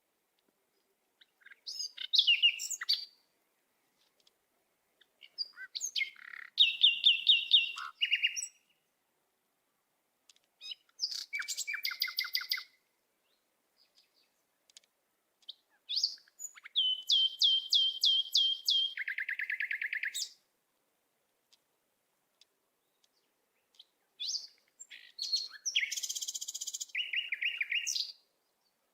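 A songbird singing about five phrases of fast trilled notes, each phrase a few seconds long and dropping in steps to a lower trill, with pauses of a few seconds between.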